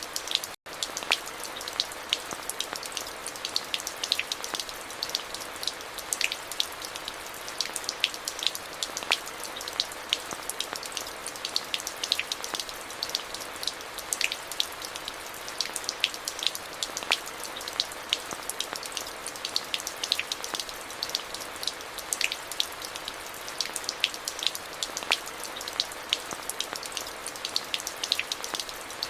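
Steady rain falling, with many distinct close drops ticking sharply on a surface over an even hiss. It cuts out for an instant about half a second in.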